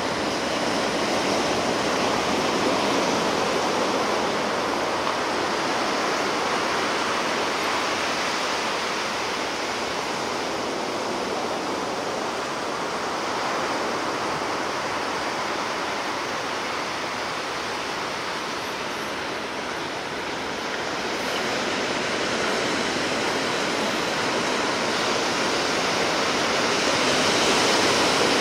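Ocean surf: a continuous wash of waves on the shore that swells and eases slowly, growing louder near the end.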